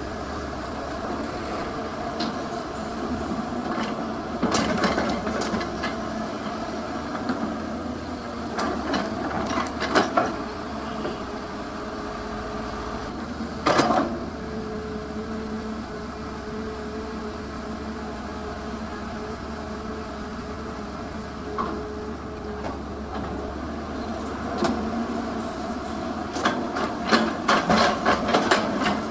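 Heavy diesel earthmoving machinery running steadily, with occasional sharp knocks and a quick run of clattering near the end.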